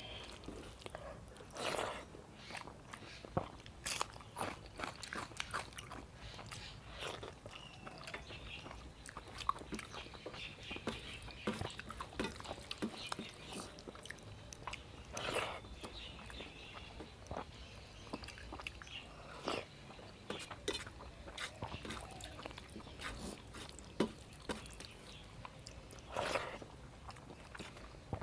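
Close-miked eating of a vegetable thali of rice and curry: irregular chewing and biting with scattered crunchy bites.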